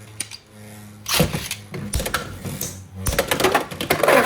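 Beyblade X spinning tops battling in a plastic stadium: bursts of rapid clicking and clattering hits, busiest near the end.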